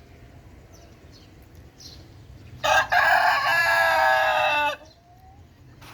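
Rooster crowing once: a single cock-a-doodle-doo of about two seconds, starting about two and a half seconds in.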